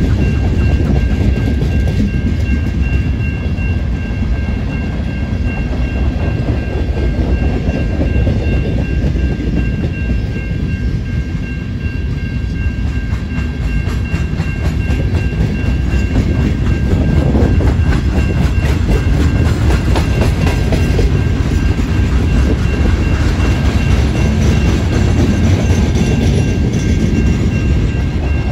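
Freight cars of a CN train rolling past close by: boxcars, tank cars and loaded wood-chip gondolas, a steady heavy rumble with wheels clattering over the rail joints. A thin high ringing tone holds throughout, and the rumble grows a little louder about two thirds of the way through.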